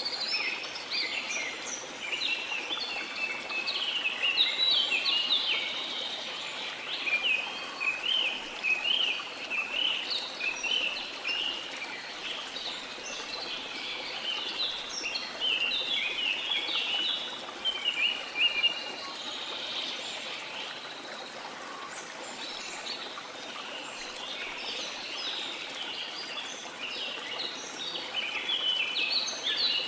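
Many birds chirping and singing in quick short notes, almost without a break, over the steady rush of a waterfall.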